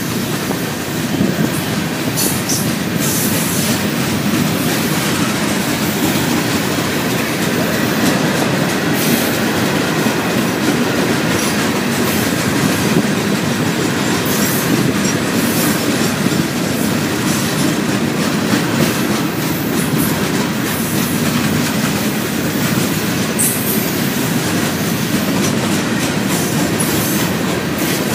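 Florida East Coast Railway freight train's open-top rock hopper cars rolling past close by: a steady rumble with the wheels clicking irregularly over the rails.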